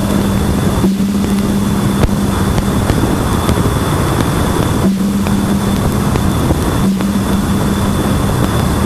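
Sonified spacecraft radio-wave data: a steady static hiss with a low hum that switches on and off in stretches and a faint high whistle over it. It is broken by brief dropouts about a second in, near five seconds and near seven seconds.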